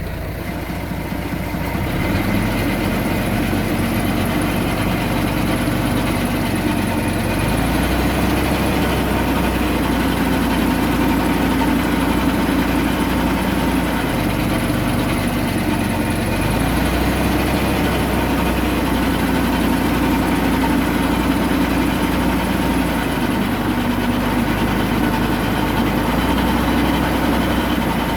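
Heavy diesel engine running continuously, its low note stepping up and down a few times as engine speed or load changes. It swells up over the first couple of seconds.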